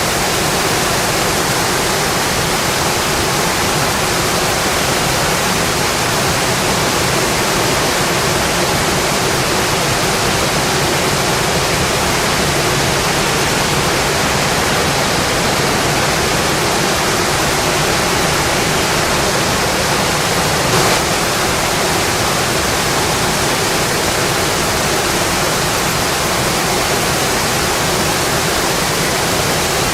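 Steady, dense rainfall: an even hiss with no change in strength, and one brief sharp tick about two-thirds of the way through.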